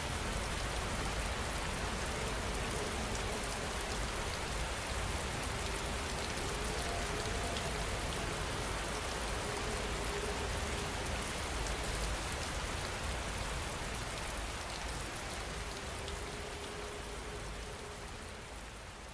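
Heavy rain falling steadily, fading out over the last few seconds.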